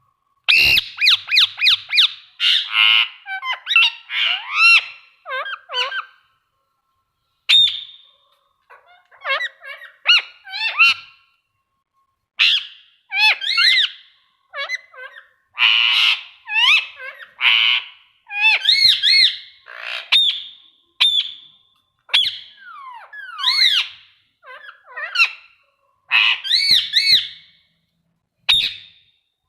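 Indian ringneck parrot calling and chattering: a run of short, high squawks and whistled pitch glides in quick clusters, with brief pauses between them.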